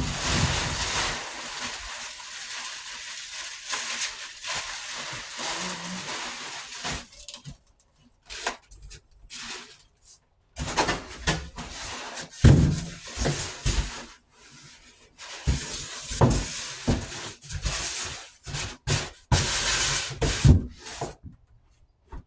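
Handling noises of packaging and saw parts: a rustle of about seven seconds, then a series of irregular clicks and knocks with short pauses between them.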